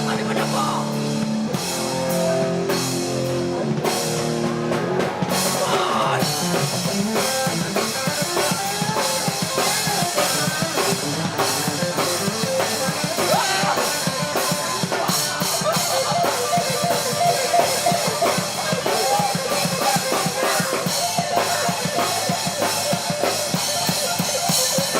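Hardcore band playing live: electric guitar chords ring out for the first few seconds, then the full band comes in with fast, dense drumming under the guitars.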